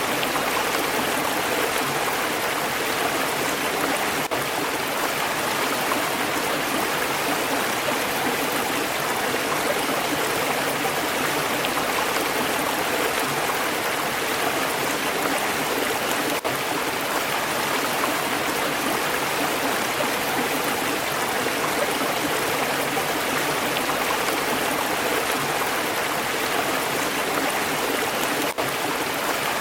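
Stream water flowing steadily, an even, unbroken sound with no change in level.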